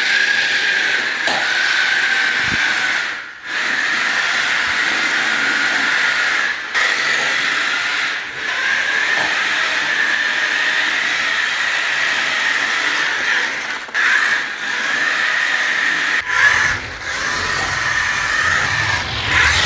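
Electric motor and drivetrain of a cheap RC drift truck whining at a steady high pitch while it is driven, cutting out briefly several times.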